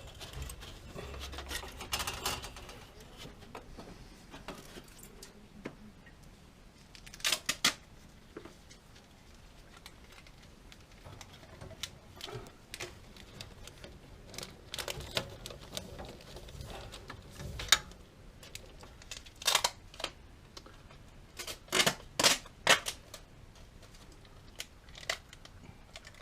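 Irregular clicks and taps, with several short rasping bursts a few seconds apart, of tape being pulled off the roll and pressed onto a vent pipe.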